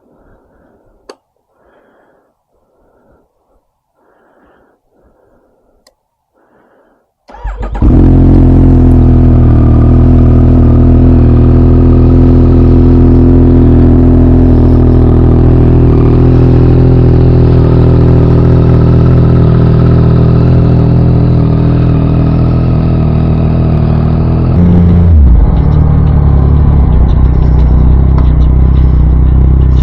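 A 2023 Yamaha MT-09's three-cylinder engine with an Akrapovic full exhaust is started about seven seconds in and then idles loud and steady. Near the end its note dips briefly and then settles slightly louder. Before the start there are only faint soft sounds and a single click.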